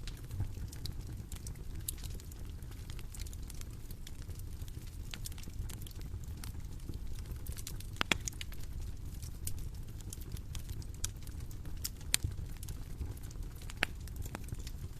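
Bonfire crackling: a steady low rumble of burning with many small pops of the wood, and a few sharper snaps about halfway and twice near the end.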